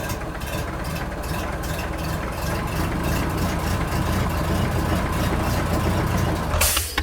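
Small tractor-type engine running steadily at idle with an even chug, cutting off sharply near the end.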